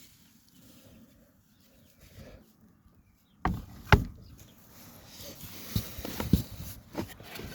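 Wooden beehive parts being handled: after a quiet stretch, a few sharp knocks of wood on wood, the loudest two close together and lighter ones following.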